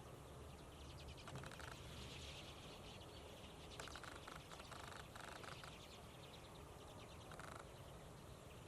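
Common redpolls calling faintly: several short runs of rapid, rattling chatter from the flock, over a steady low rumble.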